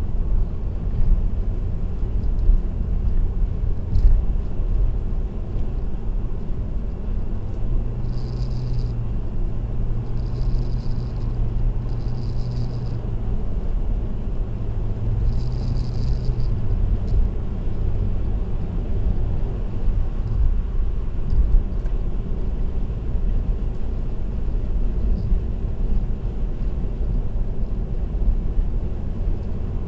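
Car driving on an expressway, heard from inside the cabin: a steady low rumble of road and tyre noise. A low hum rises between about 8 and 17 seconds in, with four short high-pitched tones over the same stretch.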